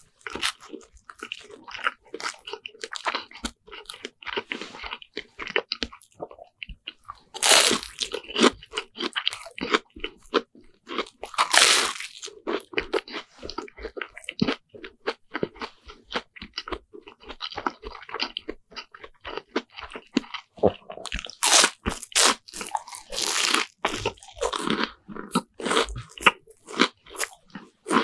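Close-miked biting and chewing of a deep-fried Lunch Pack sandwich, the crisp fried crust crunching and crackling. Several louder crunching bites stand out in the middle and later on.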